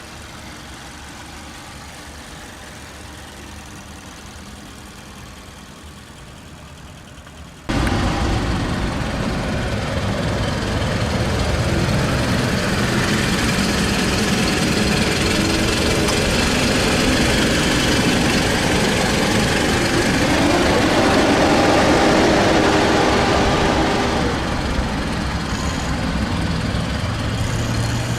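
Mazda 6's 2.5-litre inline-four engine running: a steady, fairly quiet run for about eight seconds, then an abrupt jump to much louder, dense engine and vehicle noise whose pitch rises and falls for a few seconds later on.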